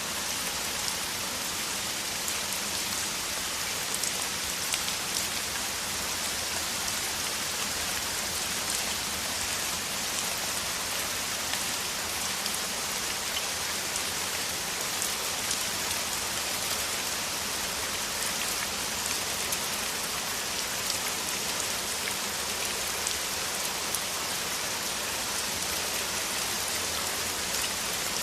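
Downpour of rain falling steadily: a dense, even hiss with scattered sharper ticks of single drops.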